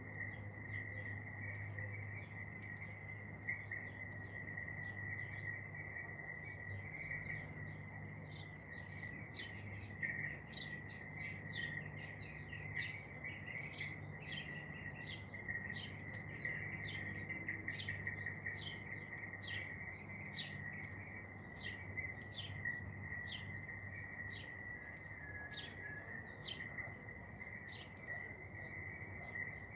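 Songbirds chirping, a quick run of short, high chirps that follow each other throughout, over a steady high-pitched drone and a low hum.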